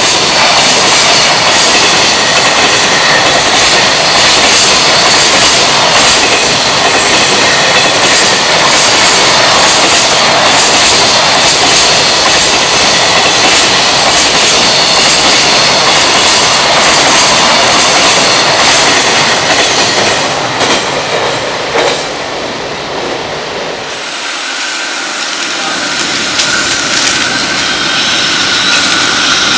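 Container freight train rolling past at speed: a loud, steady rumble of container wagons, with the wheels clattering over rail joints. Near the end the rumble drops away and an approaching EF66 electric locomotive comes in with a steady high whine.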